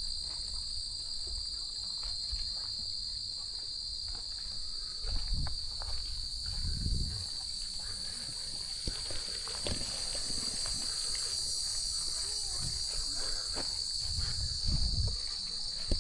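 A steady, high-pitched chorus of insects trilling without a break. A few low thumps come about a third of the way in and again near the end.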